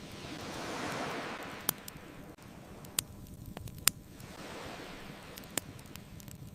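Ocean waves washing in twice, each swelling and fading, under a bonfire that gives four sharp crackling pops.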